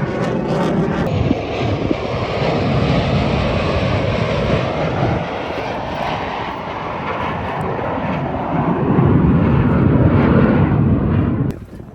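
Airplane flying past at an air show: loud, steady engine noise with a sweeping, phasing quality, building to its loudest near the end before cutting off suddenly.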